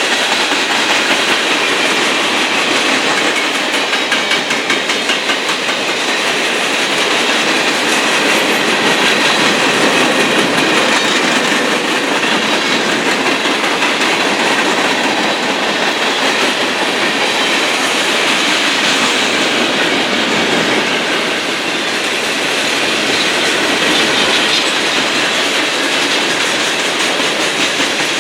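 Freight train cars rolling past with a steady wheel-on-rail noise.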